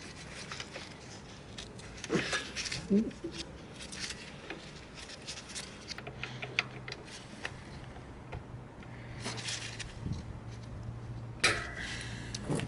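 Scattered light clicks and taps of small hard objects being handled, with a couple of louder knocks about two and three seconds in and a sharper knock near the end, over a faint low hum in the second half.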